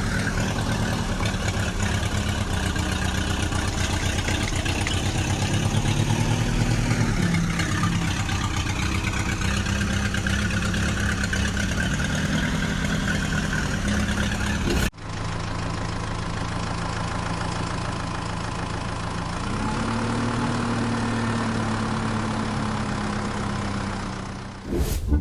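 Tractor engine running steadily, revving up briefly about 6 s in and again about 20 s in. It cuts off abruptly about 15 s in and picks up again at once.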